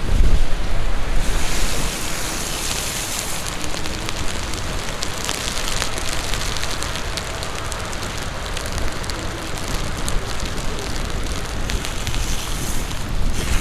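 Steady hiss of heavy rain, with many small raindrop ticks, mixed with wind buffeting the microphone of a rider moving along on an electric unicycle. The low wind rumble is heaviest for about the first two seconds, then eases.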